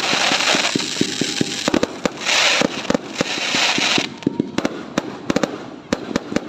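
Fireworks going off in quick succession: a dense string of sharp pops and bangs with stretches of loud crackling hiss, thinning to scattered pops after about four seconds.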